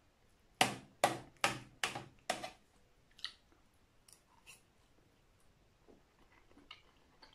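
Long fingernails clicking: five sharp taps in quick succession, about two a second, then a few fainter, spaced-out taps.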